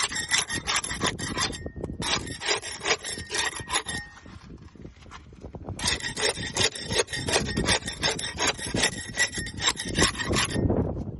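Barnacles being scraped off a boat: fast, rasping scraping strokes in two runs, with a break of about two seconds in the middle.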